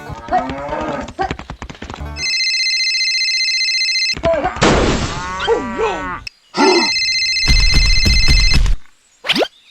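A telephone-style ringing tone sounds twice, each ring about two seconds long, with a short voice-like sound between the rings.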